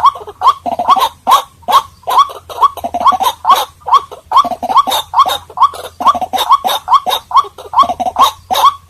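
White-breasted waterhen calling: an unbroken run of short, harsh notes, each rising in pitch, about three a second.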